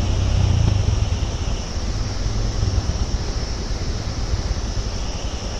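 Steady rushing noise of a river with a low rumble underneath.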